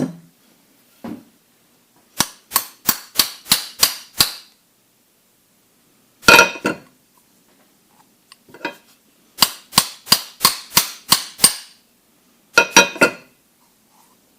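Hammer striking metal in four quick runs of blows, about three a second, driving a roll pin into a tractor PTO overrunning coupler. The pin won't go in because its hole doesn't line up with the shaft's splines.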